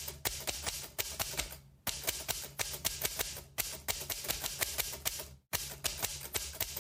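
Typewriter keys clacking in rapid, irregular strokes, in three runs with two brief pauses.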